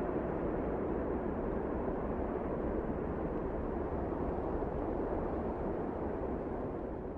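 Steady rushing wind of a snowstorm, an even noise with no distinct events, easing off slightly near the end.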